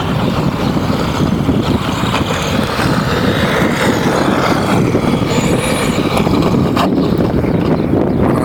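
Small engine running steadily, with wind buffeting the microphone.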